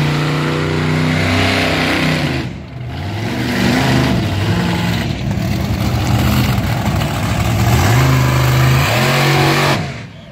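Monster truck engine revving hard, its pitch climbing and falling again and again during a stunt run, easing off briefly about two and a half seconds in and again near the end.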